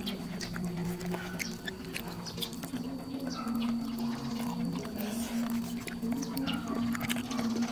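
Close-up chewing and mouth clicks of someone eating fried sausage-and-cheese rolls, with a steady low hum underneath.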